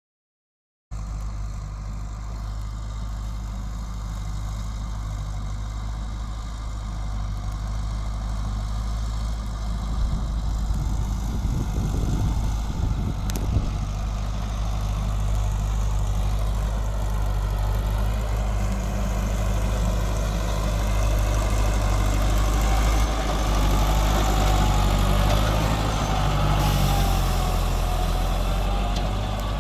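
Thale Thong TR55 four-wheel-drive tractor's engine running steadily, growing somewhat louder about ten seconds in, with a sharp click a few seconds later.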